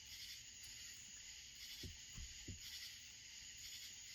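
Near silence: a steady high hiss with three faint, light knocks close together about two seconds in.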